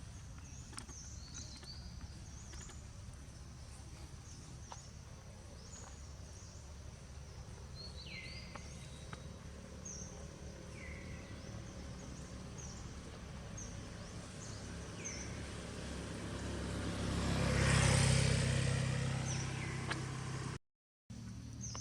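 Outdoor ambience with birds giving repeated short, falling chirps. A motor vehicle passes: its engine hum and tyre noise build up, are loudest about three-quarters of the way through, then fade. The sound cuts out briefly near the end.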